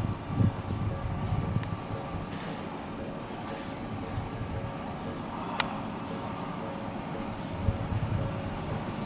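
Steady high-pitched drone of cicadas. Under it are low rumbling thuds from an Odakyu 50000-series VSE Romancecar's wheels on the track, in the first couple of seconds and again near the end.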